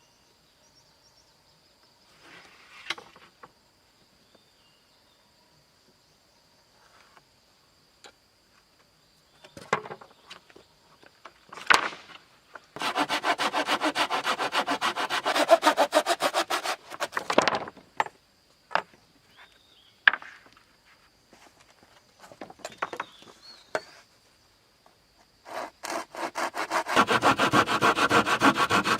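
Hand saw cutting through wood in two long spells of rapid back-and-forth strokes, with scattered knocks and handling noises between them. A faint steady high whine runs under the quieter stretches.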